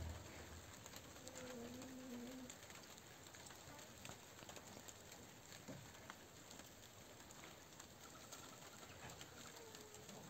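Near silence with a faint hiss, broken by a faint low bird call about a second and a half in and another near the end.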